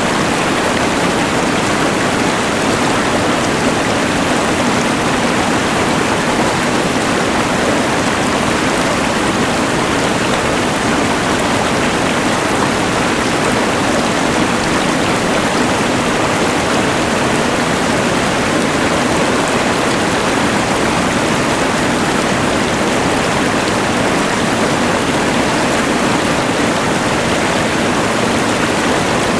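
Rushing mountain river layered with the hiss of a LectroFan white noise machine: one steady, unbroken wash of noise with no changes.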